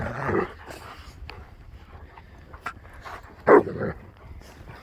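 A dog barking: a softer sound at the start, then one loud bark about three and a half seconds in, followed quickly by a shorter one.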